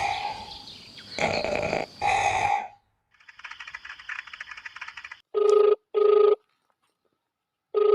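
A telephone-style ring in the double-ring pattern: two short rings, a pause, then two more, starting about five seconds in. It is preceded by a buzzing trill and, at the start, a few loud noisy bursts.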